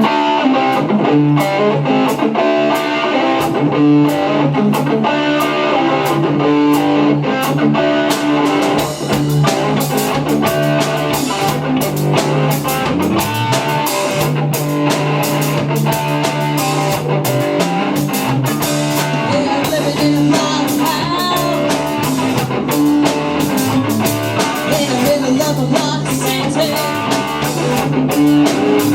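A rock band playing live: guitar over a steady bass line and a drum kit, with the cymbals growing busier about eight seconds in.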